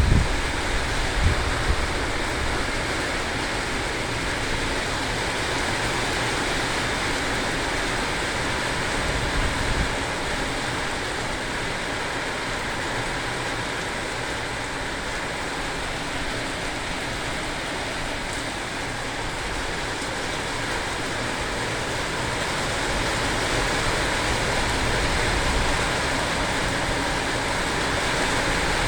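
Heavy rain falling steadily, a dense even hiss. Wind buffets the microphone briefly near the start and again about nine seconds in.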